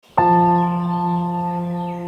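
Background music opening: one bell-like note struck about a fifth of a second in and left ringing, with faint bird chirps high above it.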